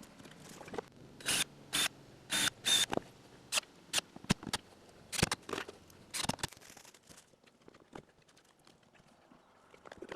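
A string of short, irregular scrapes and rustles, about a dozen over the first seven seconds and bunched at the start, then only faint scattered ticks.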